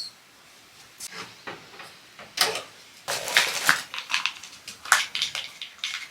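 Things being handled: a run of irregular light clatters, knocks and rustles, busiest in the middle.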